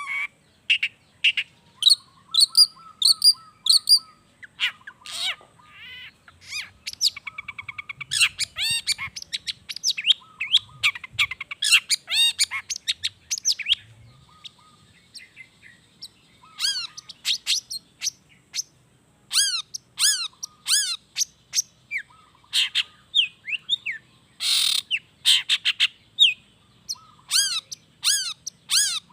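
Long-tailed shrike (cendet) singing a fast, varied song of chirps, trills and down-slurred whistles with short pauses, its repertoire filled with calls borrowed from other birds.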